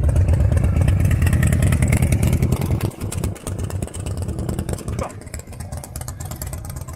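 A loud vehicle engine with a deep exhaust rumble, dropping away about three seconds in, leaving quieter engine noise.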